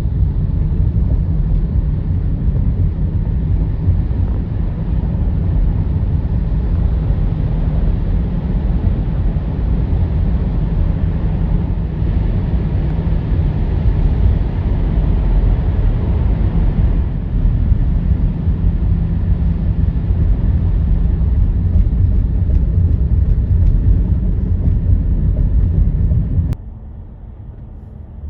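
Steady, loud low rumble of a vehicle in motion, with a sudden drop to a quieter rumble near the end.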